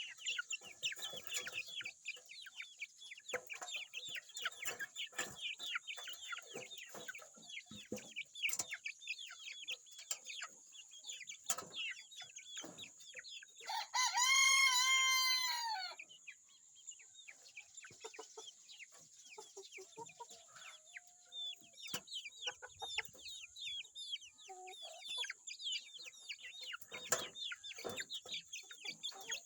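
A flock of chickens clucking and peeping continuously in short high calls. About halfway through a rooster crows once, loud, for about two seconds.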